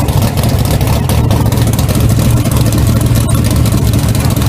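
A 1200 hp Chevy engine running loud and steady.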